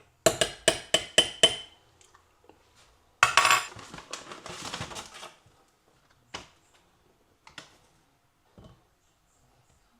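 Dishes and cutlery clinking: about six quick, ringing clinks in the first second and a half, then a rattling clatter, then a few light knocks.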